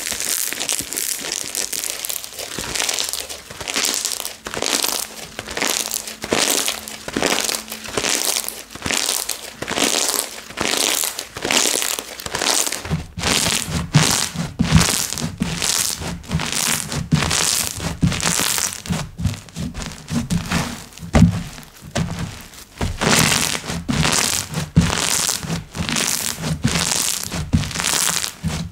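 Hands squeezing and pressing slime, giving a steady run of crackly, crinkling pops about once or twice a second; from about halfway through, deeper thuds join in.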